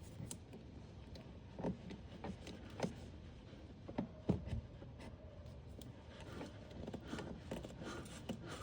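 Faint, scattered clicks, knocks and light scrapes of a hand tool working in an engine bay.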